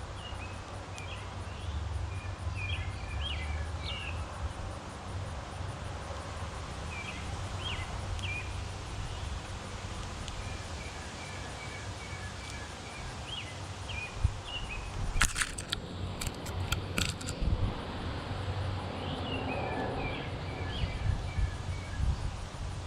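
A small songbird singing short phrases of quick chirps and rapid note series, repeated every few seconds over a steady low background rumble. A cluster of sharp clicks comes about two-thirds of the way through.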